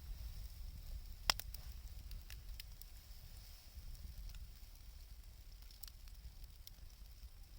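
Wood fire crackling, with scattered sharp pops, the loudest about a second in, over a steady low rumble.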